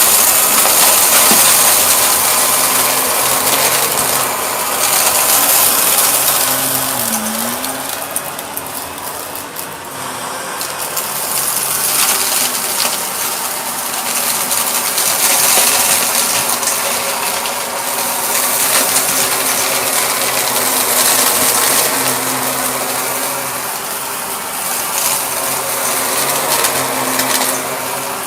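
Shark vacuum cleaner running continuously: a motor hum under a rushing airflow, with dense fine rattling and clicking. The motor's pitch dips briefly about seven seconds in, and the loudness swells and eases every few seconds.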